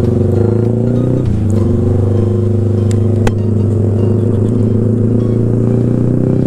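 Small single-cylinder sport motorcycle engine running steadily as the bike gathers speed in traffic. The engine note breaks briefly just over a second in, then carries on, and there is one sharp click about three seconds in.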